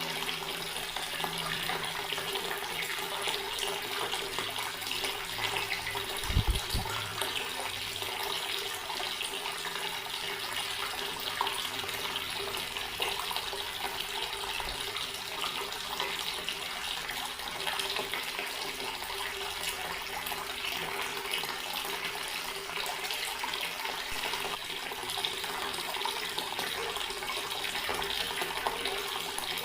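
Water running steadily from a tap in an even rush, with a faint steady hum underneath. A single dull low thump is heard about six seconds in.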